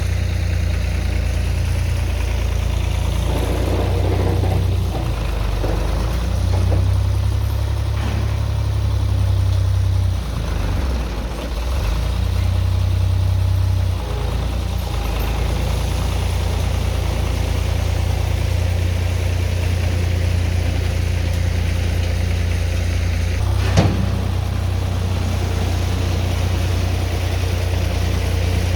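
A tractor's diesel engine running steadily while it spreads gravel, its pitch and load shifting a few times in the first half. A single sharp knock about three quarters of the way through.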